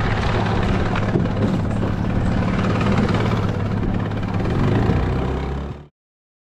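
Boat motor running steadily with wind and water noise on choppy water. It cuts off suddenly near the end.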